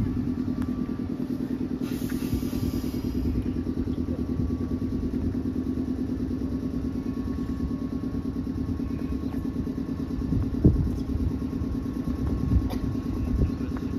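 Stationary Meitetsu electric train's onboard machinery running with a steady, rapid pulsing hum and a faint steady whine. There is a short hiss of air about two seconds in, and a couple of sharp knocks near the end.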